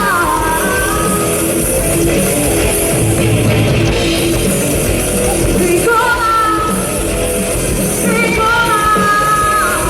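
Live rock band playing loud and steady, with a sung melody coming in and out over guitar.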